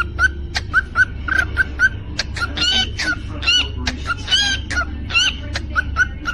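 Cockatiel chirping: quick short calls repeated about three or four times a second, with a few longer warbling calls that bend up and down in pitch in the middle.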